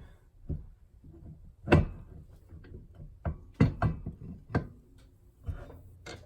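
Heavy steel parts of a ball joint press and steering knuckle knocking and clanking as they are handled: about seven separate sharp knocks, the loudest about two seconds in.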